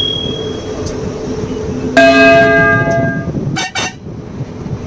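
A single metallic, bell-like ring struck about two seconds in, its several tones dying away over about a second, over the steady drone of a truck engine. Two sharp knocks follow near the end.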